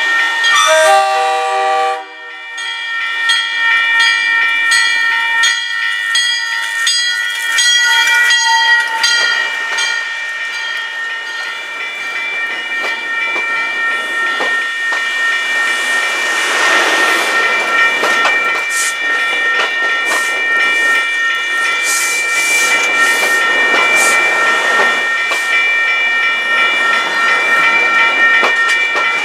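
A commuter train's horn chord cuts off about two seconds in, and the train then passes over a grade crossing in the rain. Through the rest, the crossing bell rings, the wheels click over the crossing and rail joints (thickest in the first several seconds), and the wheels hiss on the wet rails, swelling as the coaches go by.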